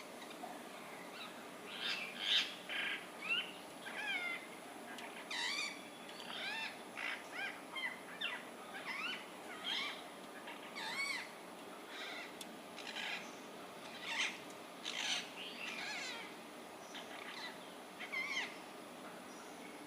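Birds chirping and calling over and over, many short up-and-down calls overlapping one another.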